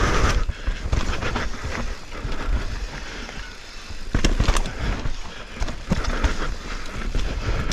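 Canyon mountain bike riding down a steep trail: tyres running over soft dirt, with frequent knocks and rattles from the bike over roots and bumps, and wind rumble on the camera microphone. The clatter grows louder about four seconds in.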